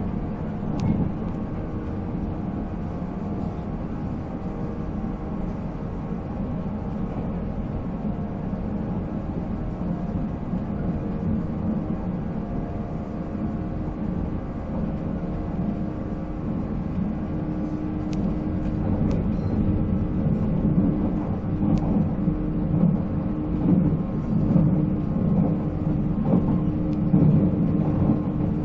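Running sound of a JNR 485-series electric train, its MT54 traction motors humming steadily over the rumble of wheels on rail, with a few light ticks. It grows a little louder in the last third.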